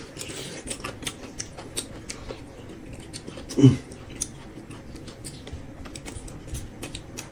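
Close-miked eating sounds: chewing, with quick irregular mouth clicks and smacks. A brief low hum of a voice about three and a half seconds in is the loudest sound.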